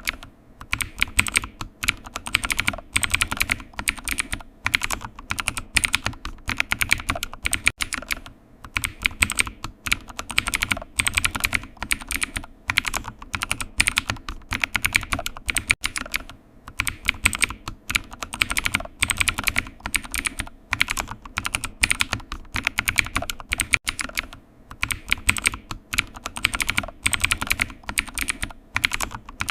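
Typing on a computer keyboard: steady runs of fast key clicks broken by brief pauses every several seconds.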